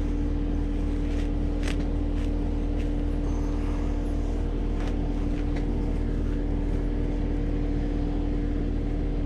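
Cat 259D compact track loader's diesel engine running steadily, a constant drone with a steady hum, with a few faint sharp ticks scattered through.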